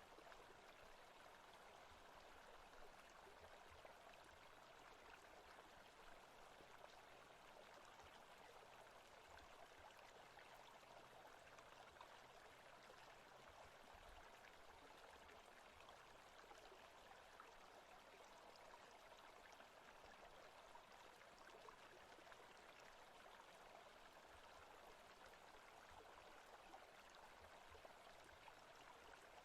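Faint, steady rushing of a forest stream from an ambient nature-sound track.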